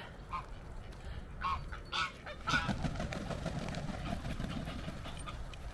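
Goose honking: a handful of short calls in the first half, the loudest about two and a half seconds in.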